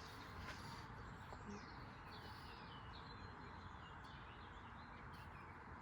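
Faint bird chirping over a low steady background hiss, the chirps coming in a short run about a second in and fading out past the middle.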